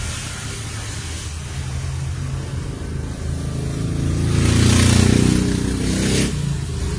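A low engine drone that swells to its loudest a little past the middle, then drops off sharply about six seconds in.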